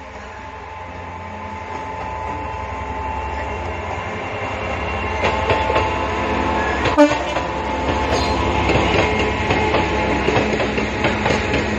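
EWS Class 66 diesel locomotive, with its two-stroke EMD V12 engine, approaching and passing, its running growing steadily louder. One brief sharp sound comes about seven seconds in. Hopper wagons then roll past with a rhythmic clickety-clack of wheels over the rail joints.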